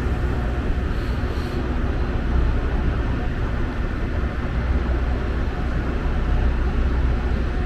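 Metra commuter train standing at the station, its diesel locomotive running with a steady low rumble.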